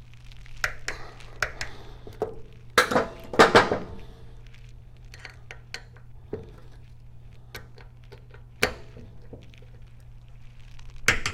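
Metal hand tools and small metal engine parts clinking and knocking as they are handled and set down, with a louder cluster of clanks about three seconds in.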